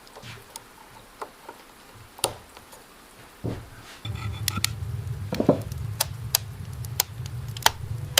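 Scattered light knocks and clicks of hand work with wood or stone. About halfway through, a low steady rumble comes in, with sharp clicks about twice a second over it.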